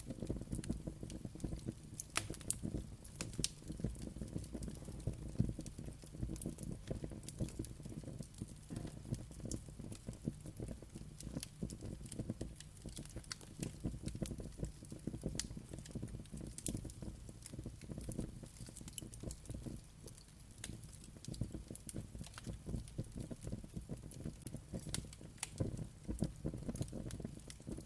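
Wood fire burning with a steady low rumble and dense, irregular crackling and popping.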